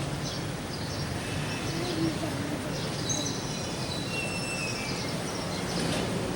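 Steady low outdoor background noise with scattered short, high bird chirps and whistles.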